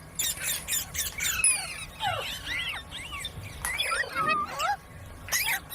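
Several young rose-ringed (Indian ringneck) parakeets chattering: rapid, overlapping squawks and chirps that slide up and down in pitch.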